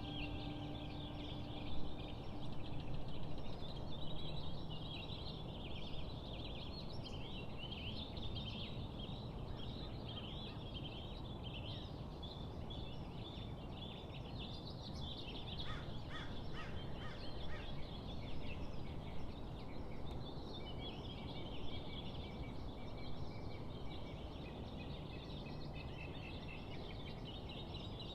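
A flock of small birds chirping and twittering continuously over a steady low rumble of outdoor background noise, with a short run of quick, sharper calls about halfway through.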